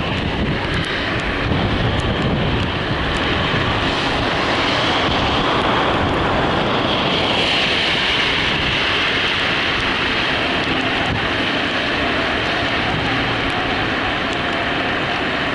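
A car on the move: steady road and engine noise with wind on the microphone, and a louder hiss setting in about halfway through.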